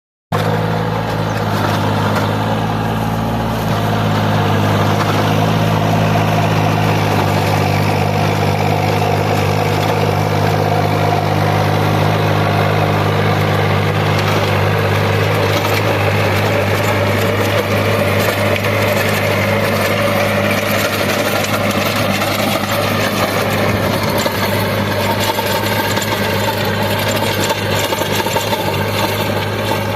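VST Shakti 929 compact tractor's direct-injection diesel engine running steadily.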